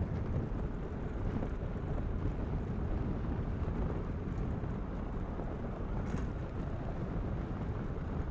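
Steady low rumble of a bicycle being ridden on a road: wind on the microphone and tyre noise.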